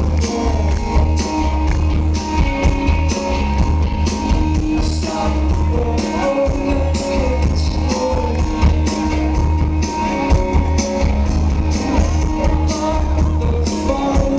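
Live rock band playing a song: electric guitars and strong deep bass over a steady drum beat.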